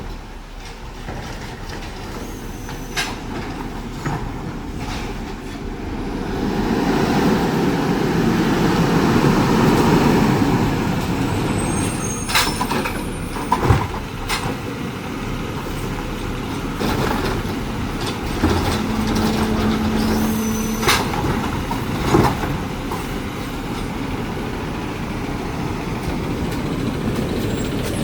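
Garbage truck at work: its engine revs up and holds for several seconds, then several sharp clanks and air-brake hisses come in the second half.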